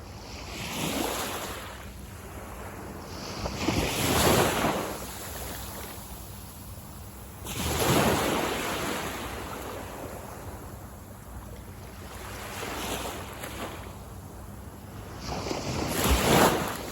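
Sea waves washing onto a beach, with a steady wash between breakers and a louder surge every few seconds, five in all, the strongest about 4, 8 and 16 seconds in. Light wind buffets the microphone.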